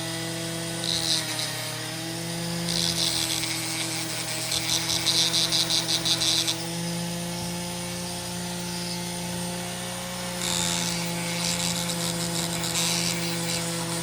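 Foredom flex-shaft rotary tool's motor running steadily with a whine. Its soft metal brush scrubs the steel of a pocketknife in bursts, adding a high scratching hiss about a second in, from about three to six seconds, and again near the end.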